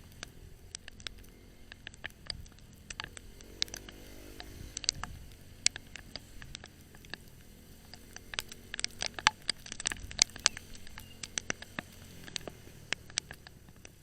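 Motorcycle ride on Metro Manila streets: a low engine sound that rises and falls, under many irregular sharp clicks and ticks, thickest about two-thirds of the way in.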